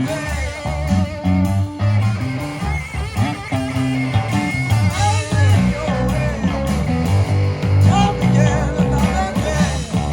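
Garage rock band playing a blues instrumental: electric guitar lead over bass and drums.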